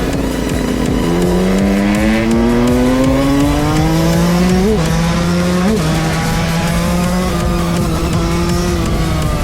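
Two-stroke motorcycle engine under hard throttle. Its pitch climbs steadily for a few seconds as the bike accelerates, flicks up briefly twice around five and six seconds in, then holds a steady note.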